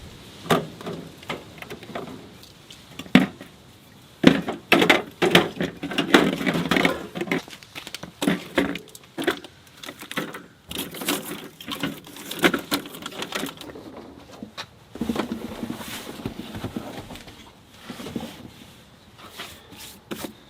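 Gear being handled and packed: a string of irregular knocks, thuds and rustling, busiest a few seconds in.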